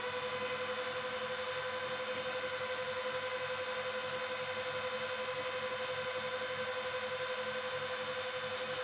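A steady buzzy test tone from the home-built D.5000pro sound unit, held on one pitch with a string of overtones, during a sound test.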